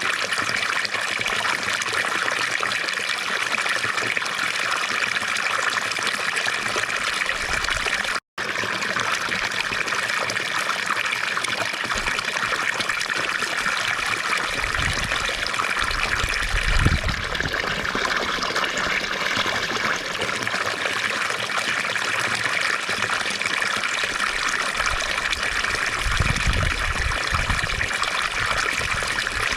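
Fountain water splashing and trickling steadily, with a brief cut-out about eight seconds in and two short spells of low rumble later on.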